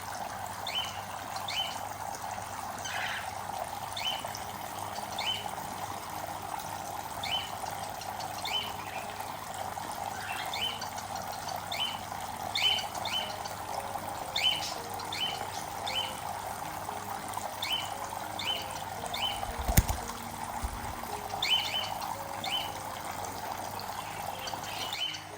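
Cockatiels giving short, repeated chirps, often in pairs, over a steady trickle of running water from their bath. A single sharp knock about twenty seconds in.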